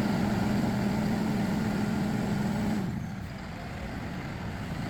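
Bucket truck's hydraulic system running as the dual hydraulic outriggers are worked: a steady hum that cuts off about three seconds in. The Cummins 6.7-litre turbo diesel idles underneath.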